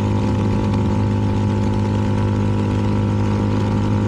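CFMoto 300NK single-cylinder engine through its aftermarket KO exhaust, running at a steady cruise with an even pitch.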